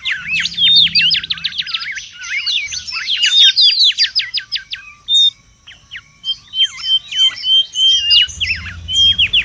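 Mangrove whistler calling excitedly in fast runs of sharp, steeply rising and falling whistled notes. The calls pause briefly about five seconds in, then resume with short steady whistles mixed in.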